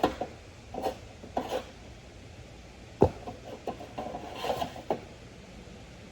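Short scraping and rubbing sounds with a few clicks and one sharp knock about three seconds in, as of objects being handled and set down.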